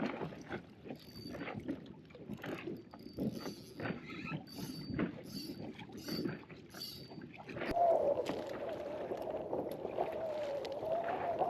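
Sounds of a small inflatable boat on choppy water: irregular knocks and splashes with a faint high squeak repeating about every half second. About eight seconds in, a steady, wavering motor whine starts as the boat gets under way.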